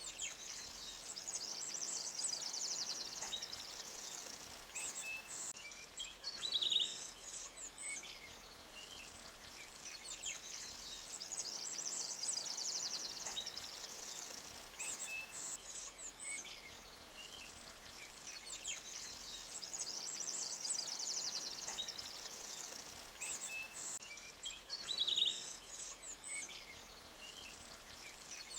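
Forest ambience of small birds chirping and trilling high-pitched, in bouts that recur about every nine seconds, over a faint steady hiss of a flowing stream.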